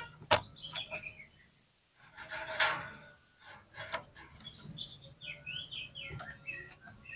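Oriental magpie-robin (kacer) singing a varied, rapid song of short whistled notes, up-and-down slurs and sharp clicking calls, with brief pauses between phrases.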